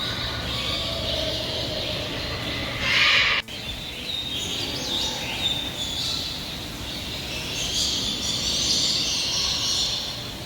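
Many birds chattering and calling over a steady low hum, with one loud, harsh squawk about three seconds in. The sound breaks off abruptly just after it, and the calls carry on.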